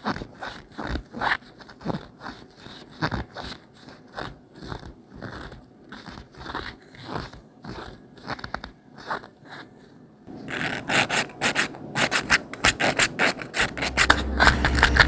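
Repeated irregular scraping and rubbing strokes, which become denser and louder about ten seconds in; a low steady hum comes in near the end.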